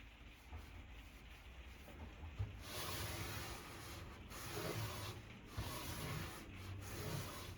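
Something being rubbed over wood by hand in three long strokes, each a second or more, starting about three seconds in.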